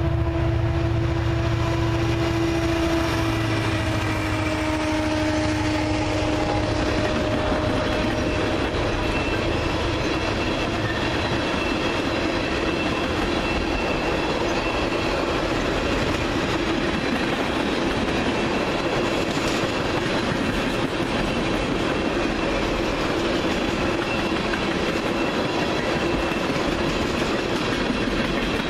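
Union Pacific oil train passing: the lead diesel locomotives go by with a steady pitched tone and low rumble that drops slightly in pitch and fades over the first several seconds, then a long string of loaded tank cars rolls past with a steady rushing noise of steel wheels on rail.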